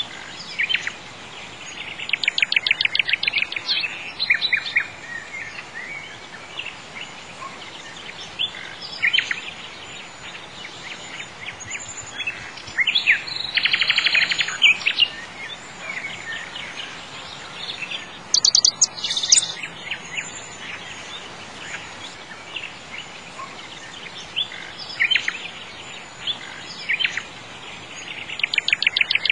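Birds singing: bursts of rapid trills and short chirps every few seconds, over a steady faint hiss.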